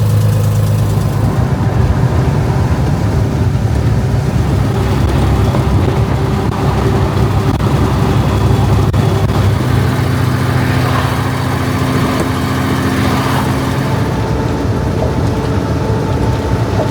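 Truck engine running steadily while hauling a load of corn, its note changing about ten seconds in.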